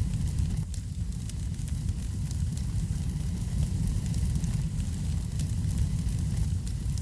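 Wood fire in a fireplace crackling: a steady low rumble under many small, sharp crackles and pops.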